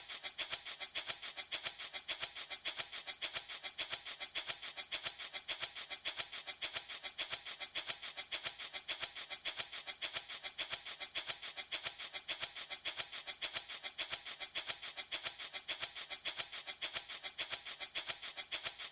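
Handmade baby rattle shaken in a steady, even rhythm, about four to five crisp, bright rattling strokes a second, with no pause.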